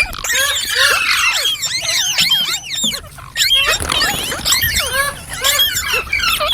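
Pet green parrot chirping and squealing in quick, overlapping, high chirps, several a second, with a brief pause about three seconds in.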